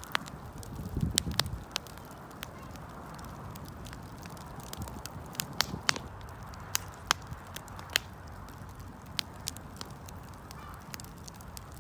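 Wood campfire crackling, with sharp irregular pops and snaps over a steady low hiss and rumble of burning. A short low rumble swells about a second in.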